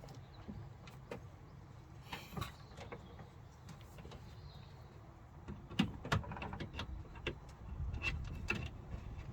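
Faint handling noise of wiring-harness plug connectors being pushed together: a few scattered plastic clicks and knocks, with a group near the middle and another near the end, over a low steady rumble.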